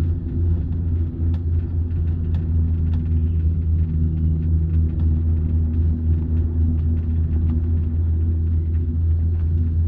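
Steady low rumble and hum inside a moving passenger vehicle, with scattered faint clicks and rattles.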